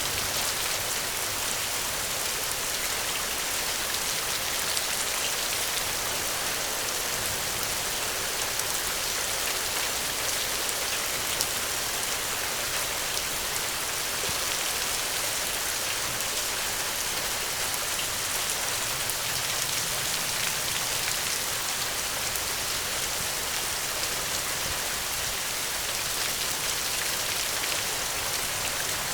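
Steady, even rain falling on a surface, with scattered small ticks of individual drops.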